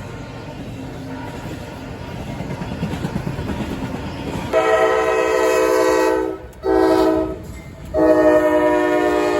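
Train rumbling as it draws closer, then a locomotive air horn sounding a chord in a long blast, a short blast and another long blast, the end of a grade-crossing signal.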